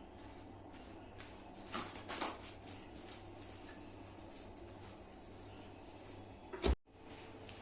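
A few light household knocks over a low steady hum, then one sharp knock near the end, the loudest sound.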